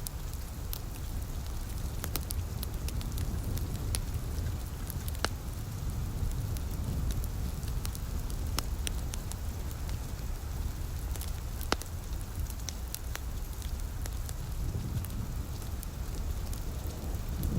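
Wood fire crackling, with scattered sharp pops (the loudest about twelve seconds in) over a steady low rumble and a soft rain hiss.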